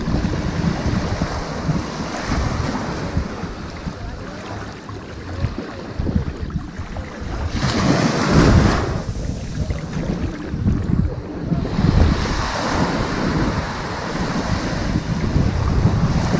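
Ocean waves washing onto a sandy beach, with a louder wave breaking about halfway through and smaller swells after it. A low rumble of wind on the microphone runs underneath.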